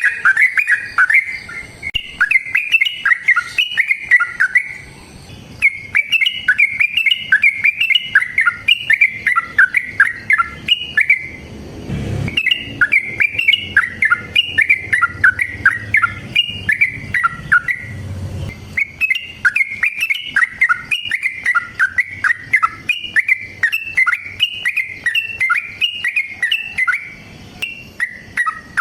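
Yellow-vented bulbul (trucukan) singing long, rapid, bubbly phrases one after another, with brief pauses between them. A faint low rumble sits under the song in the middle.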